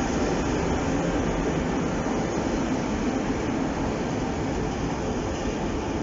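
Freight train of empty stake wagons rolling past at close range: a steady rumble of wheels on the rails.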